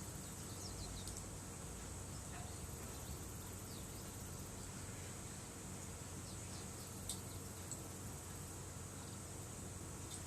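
Insects trilling steadily in a high, even tone, with a few short faint chirps and one sharp click about seven seconds in.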